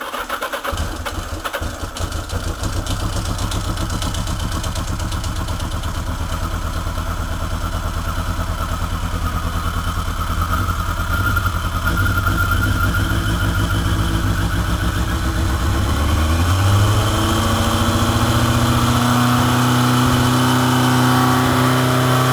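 1985 Yamaha Maxim XJ700's inline-four engine starting at once on full choke after a week unused, then running with a fast even beat. About sixteen seconds in its speed climbs and settles into a higher, steadier idle as the choke warms it.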